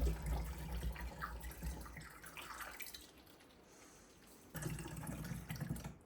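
Hot elderberry syrup being poured into bottles: liquid pouring and dripping in two spells.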